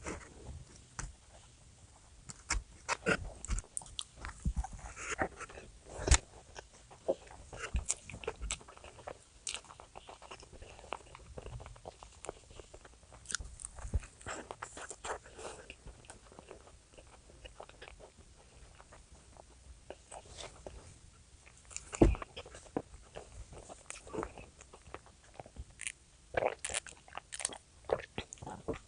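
A person eating close to the microphone: irregular crunchy bites and chewing, with sharp clicks scattered throughout and the loudest bites about six and twenty-two seconds in.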